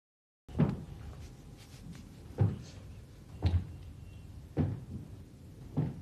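Five dull thumps at an even, unhurried pace of about one a second, starting half a second in.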